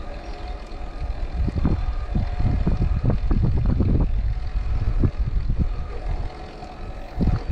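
Wind buffeting the microphone of a moving camera, in irregular low rumbling gusts over a faint steady hum.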